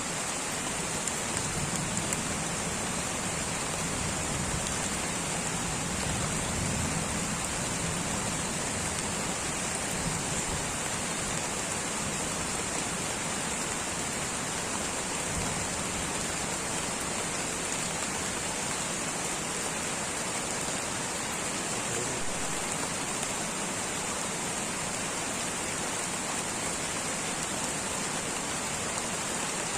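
Light rain falling steadily: an even, unbroken hiss of drops, with a constant high-pitched band of sound above it.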